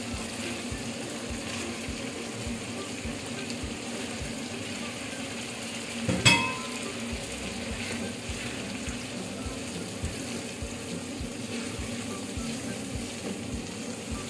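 Onions and tomatoes frying in oil in a pan, a steady sizzle, stirred with a wooden spoon. About six seconds in, chopped fresh tomatoes are tipped into the pan with a sudden loud clatter and a brief ring.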